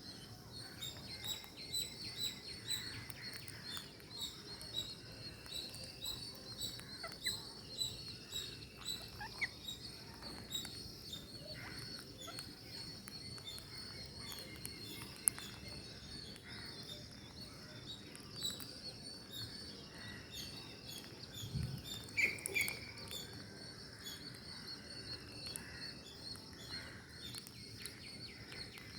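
Birds chirping over a steady, dense high chirping chorus, with short whistled calls every few seconds and scattered small clicks.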